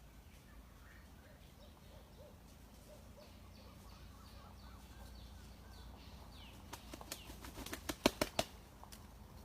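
A fowl flapping its wings in a quick run of sharp wing beats, about a second and a half long, starting about seven seconds in. Faint small bird chirps come before it.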